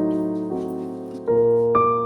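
Background piano music: sustained notes, with a new, louder note struck about a second and a quarter in.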